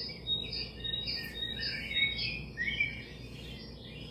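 Small birds chirping: a quick run of short, high chirps, several a second, thinning out near the end, over a thin steady high tone.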